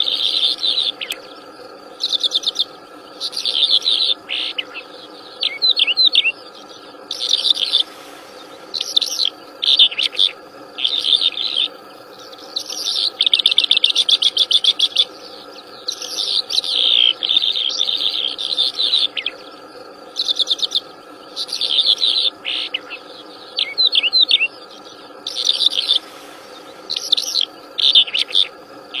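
Wild songbird singing vigorously in short, bright, high chirping phrases about a second long, repeated with brief pauses, over a faint steady insect hum.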